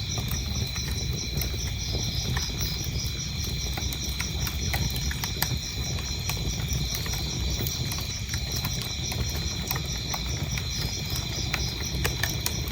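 Wood fire crackling, with frequent sharp pops and snaps over a low rumble, while crickets chirp in a steady, evenly pulsing high trill.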